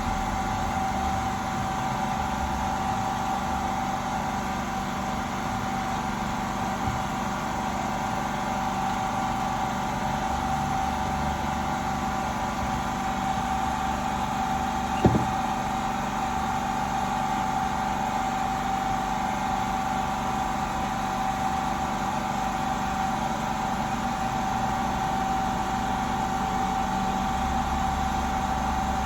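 Steady machine hum with a constant whine, and one sharp click about halfway through.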